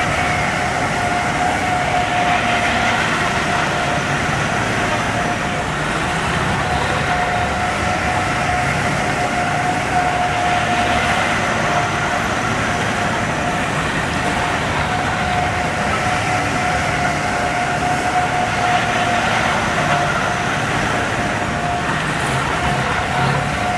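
Continuous, steady vehicle noise with a constant whine running through it.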